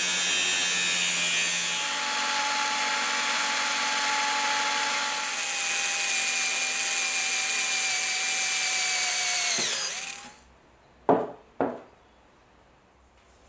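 An electric power tool runs steadily with a high whine, then is switched off about ten seconds in, its pitch falling as it spins down. Two sharp knocks follow about a second later.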